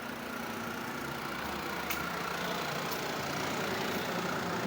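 Steady drone of a running engine or machine, with a low rumble and a faint steady whine.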